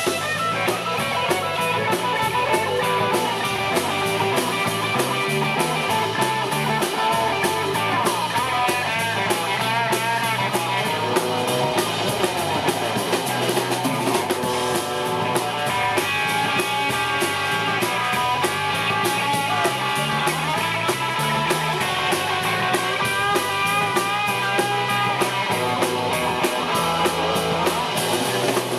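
Rock and roll band playing an instrumental break: a lead electric guitar line over steady drums and a stepping bass line, with no singing.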